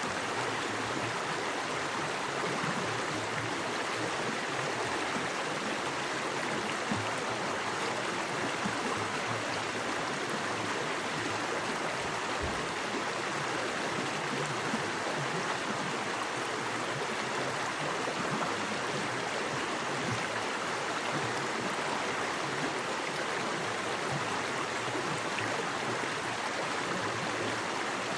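A small forest creek, fast water flowing over rocks, making a steady, even rush of noise.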